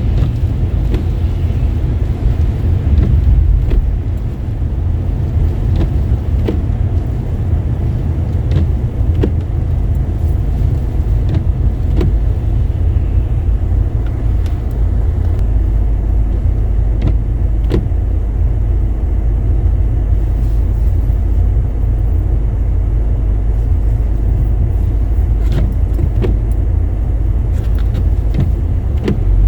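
Car driving, heard from inside the cabin: a steady low road-and-engine rumble with scattered light clicks and ticks.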